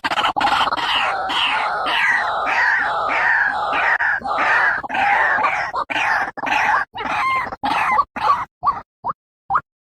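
White-breasted waterhen calling: a run of harsh, falling 'ruak' notes at about two and a half a second. The notes slow and break into shorter, spaced-out calls in the second half, and stop shortly before the end. This is the lure call used to draw the birds in.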